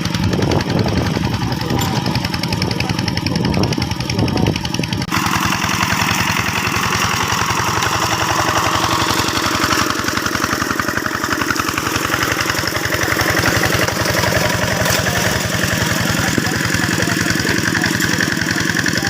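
Two-wheel hand tractor's diesel engine running steadily with an even chugging pulse; its sound changes abruptly about five seconds in.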